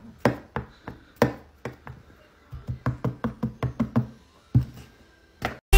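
A knife chopping into a soft black lump on a hard countertop, the blade knocking on the surface. The knocks are scattered at first, then come in a quick run of about six a second in the middle, with two last knocks near the end.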